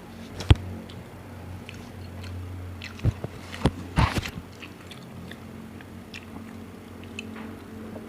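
Close-up mouth sounds of a person biting and chewing food, with a few sharp clicks and smacks about half a second in and again around three to four seconds in, over a steady low hum.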